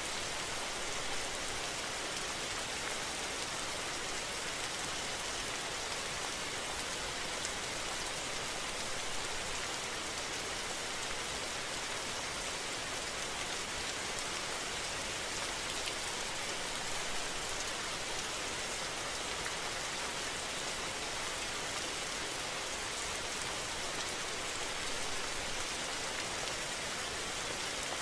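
Steady rain falling, an even hiss with small irregular spatters.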